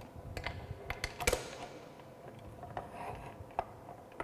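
Galvanized steel pipe being set into a tripod pipe vise: scattered metallic clicks and knocks, with one sharper clank that rings briefly about a second in.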